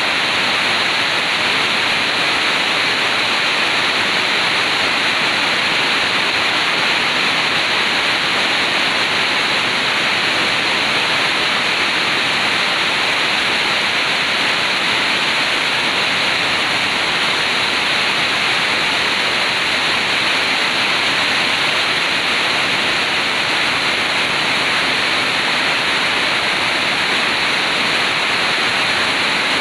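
Heavy downpour: rain falling on sheet-metal roofing and runoff water pouring off the roofs, a steady, loud hiss that never lets up.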